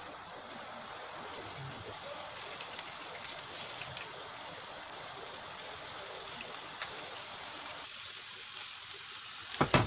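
Spice-coated okra strips sizzling in hot oil, an even hiss with scattered small crackles as more pieces are dropped in one by one. A short knock near the end.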